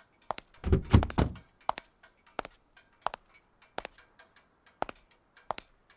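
A heavy thunk about a second in, like a car door shutting, then sharp, evenly spaced clicks about every 0.7 seconds.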